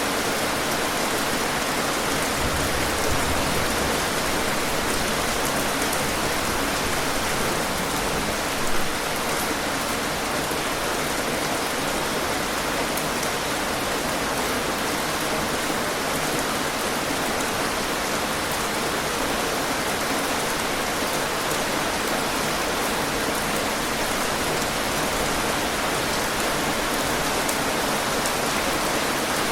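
Steady rain falling, an even hiss of many drops on surfaces, with a couple of slightly louder drop hits early on.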